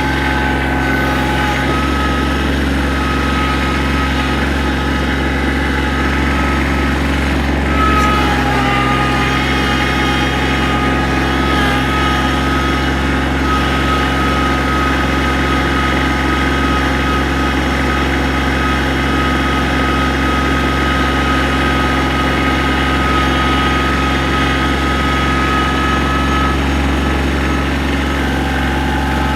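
Compact diesel tractor engine running steadily, with a high steady whine over the engine note and a brief knock about eight seconds in.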